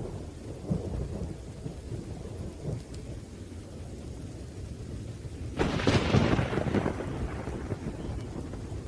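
Thunderstorm: steady rain over a low rolling rumble of thunder, broken about five and a half seconds in by a sudden sharp crack of thunder that fades out over a second or two.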